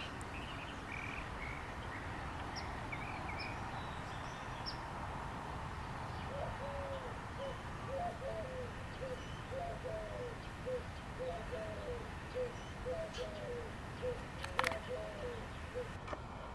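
Birds calling over steady background noise: a few short, high chirps in the first few seconds, then a long run of short, low notes, often in pairs, about two a second. There is a single sharp click near the end.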